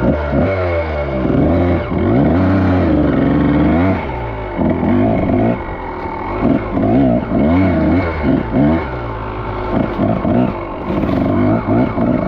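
Dirt bike engine running and being revved, its pitch rising and falling over and over. There is a longer, louder rev about two seconds in, then a run of quick throttle blips.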